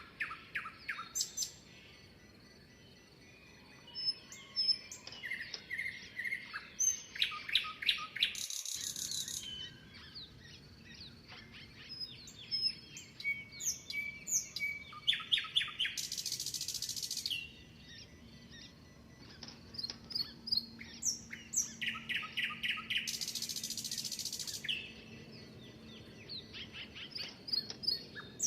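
Several songbirds chirping and singing, with short sweeping calls throughout and rapid trills of repeated notes three times, each followed by a brief high hissing buzz.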